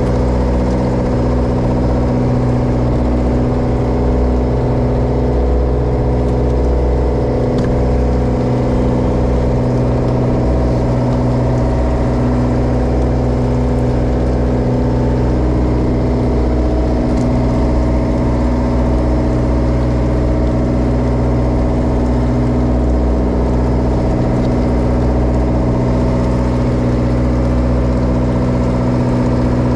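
A Japanese bottom trawler's diesel engine running steadily: an even, unbroken drone made of several steady low tones.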